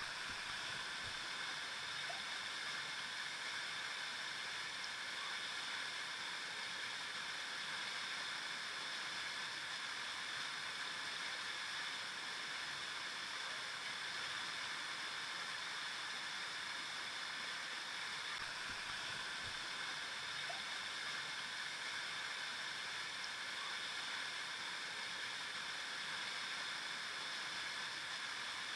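A river flowing, a steady rushing of water over rocks.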